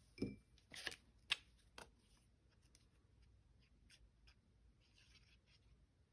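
Paper and small craft pieces being handled on a work surface: a few light rustles and taps in the first two seconds, then faint paper rustling.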